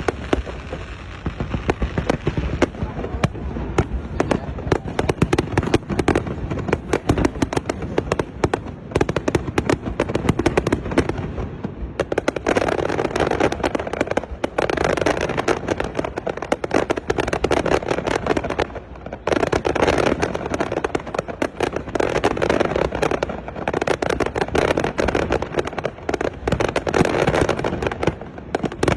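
Fireworks display: dense volleys of bangs and crackling shells. The barrage thickens about twelve seconds in, with brief lulls before carrying on.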